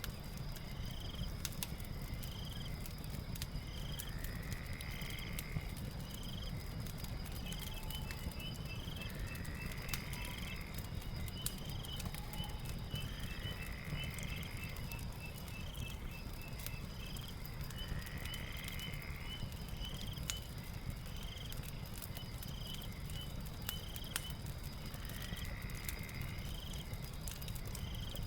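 Night ambience of crickets and insects: a steady high trill, short chirps about once a second, and a longer call repeating every four to five seconds. Under it a fireplace crackles with scattered sharp pops over a low rumble.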